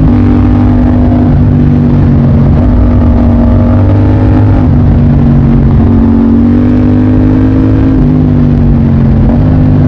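Motorcycle engine running steadily under way, its pitch shifting slightly up and down several times.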